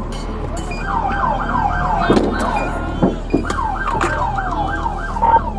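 Police car siren in a rapid yelp, each cycle a quick falling sweep, about five a second, with a brief break near the middle. A few sharp knocks land over it around the middle.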